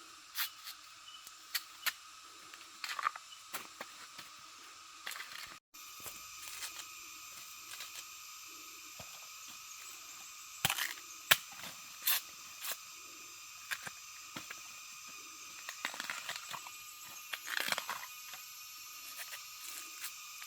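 Steady outdoor background of several high droning tones, with scattered sharp snaps and crackles, loudest around the middle and near the end; there is a brief dropout about six seconds in.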